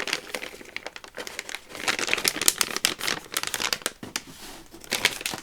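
Paper being handled, rustling and crinkling in irregular crackles.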